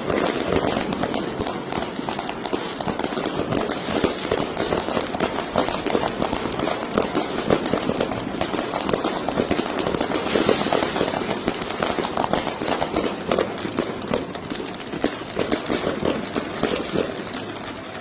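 Fireworks and firecrackers going off in a dense, rapid, unbroken crackle of many small bangs.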